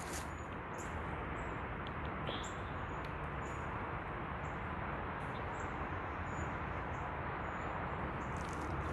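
Small birds chirping: short, high chirps roughly once a second over a steady background hiss.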